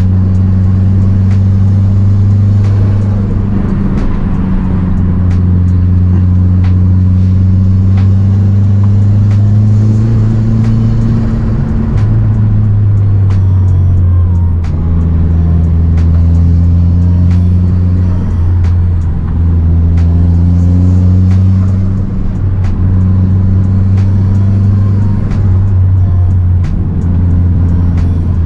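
Mazdaspeed 3's turbocharged 2.3-litre four-cylinder, with aftermarket intake and cat-back exhaust, pulling in a low gear. Its note rises and falls with the revs: a climb over the first dozen seconds, a drop, then shorter rises and dips.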